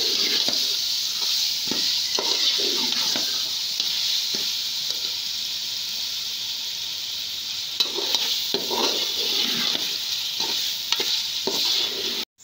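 Chicken pieces frying in oil and masala in an aluminium pot with a steady sizzle, the raw chicken just added to the onion-tomato masala. A slotted spatula stirs and scrapes against the pot, with a few sharper scrapes and knocks about eight and eleven seconds in. The sound cuts off suddenly near the end.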